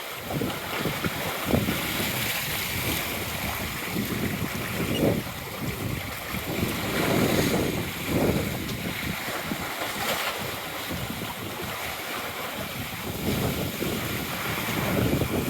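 Strong wind buffeting the microphone, with waves rushing and splashing against a sailboat's hull in a rough, choppy sea; the noise swells and falls in uneven surges.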